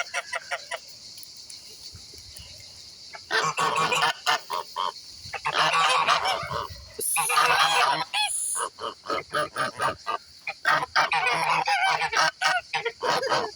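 Several geese honking repeatedly in overlapping calls, starting about three seconds in and going on almost to the end, over a steady high-pitched hiss.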